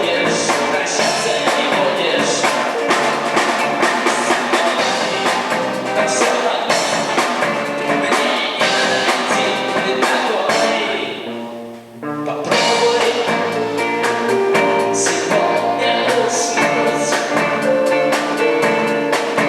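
Live band playing with drum kit and guitar, with singing; about eleven seconds in the music drops away for a moment and then comes straight back in.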